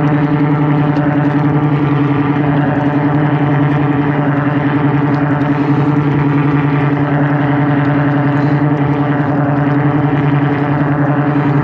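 Engine-driven high-pressure drain jetter running steadily while it jets water through a blocked pipe, a constant engine drone with a steady low hum.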